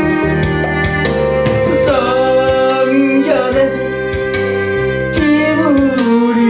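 Gospel song: a solo voice singing a slow, gliding melody over instrumental accompaniment with a light steady beat.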